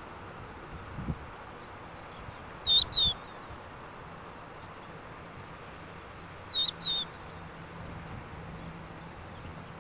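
A bird calling twice, each call a pair of short, high chirping notes, the two calls about four seconds apart, over a steady background hiss.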